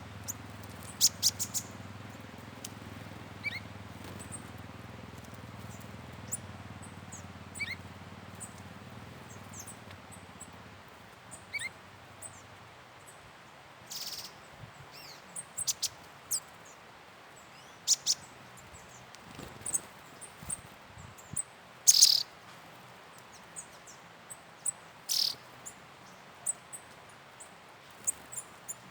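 Wild forest birds calling: short high chirps and sharp calls at irregular intervals, one loud call about two-thirds of the way through. A low steady hum sits under them for the first dozen seconds, then fades out.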